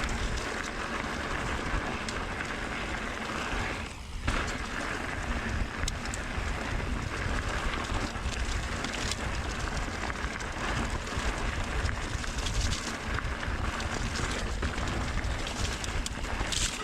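E-mountain bike descending a dirt trail at speed: tyres rolling over dirt, wind buffeting the microphone, and the bike rattling and knocking over rough ground. A brief lull about four seconds in is followed by a sharp knock.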